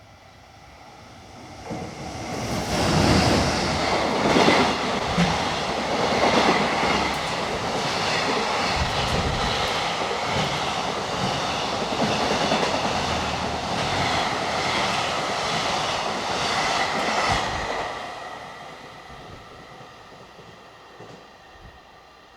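Electric-hauled Super Liner container freight train passing, its wheels clattering over rail joints in a steady rhythm. It swells in about two seconds in and fades away after about eighteen seconds.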